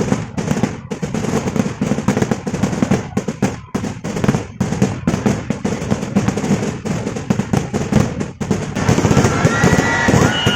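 Festival fireworks (vedikettu): a dense, rapid barrage of firecracker bangs, cracking almost without a break. Near the end the bangs thin out and high whistling glides come in.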